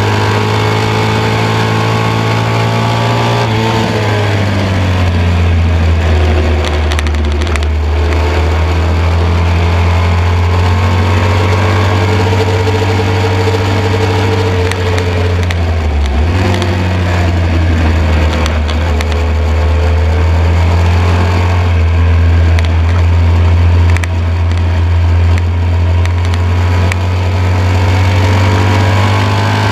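1972 BMW R75/5's air-cooled flat-twin engine running hard on a race track, with wind rush. The engine note drops a few seconds in and again around halfway as the bike slows for corners, then climbs as it accelerates out.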